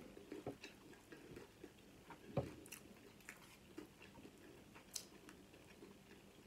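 Faint chewing of a chicken taquito, with scattered soft mouth clicks; two slightly louder clicks come about two and a half and five seconds in.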